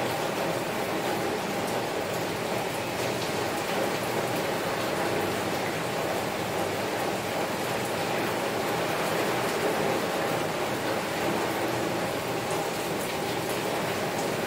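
Heavy rain falling steadily on a window, a dense patter of drops hitting the glass with no let-up.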